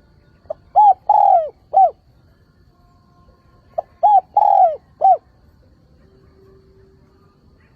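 Spotted dove cooing its song twice, about three seconds apart: each phrase is a short note followed by three arched cooing notes, the middle one the longest. It is a decoy dove's calling song, the kind used to draw wild spotted doves in and set them calling back.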